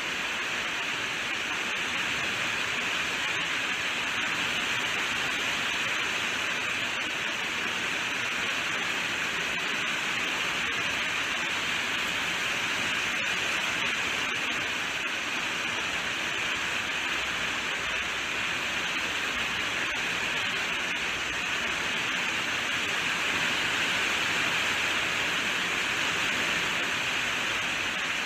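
Steady heavy rainfall, an even hiss with no single drops standing out.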